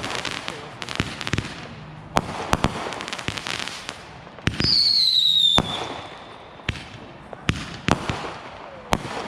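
Backyard consumer fireworks going off: sharp bangs and crackling, with a loud whistling firework about halfway through whose shrill tone falls slightly in pitch for about a second.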